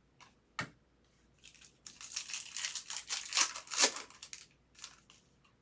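Foil wrapper of a trading card pack being torn and crinkled, with a sharp click shortly before. The crinkling runs for about three seconds in the middle.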